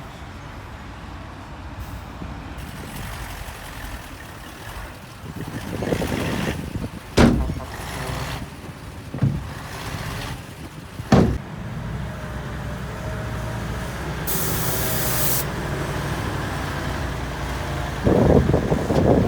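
Heavy diesel earthmoving machinery running steadily, with two sharp knocks about 7 and 11 seconds in. A short hiss of air follows about 14 seconds in, and the engine swells into a louder rumble near the end.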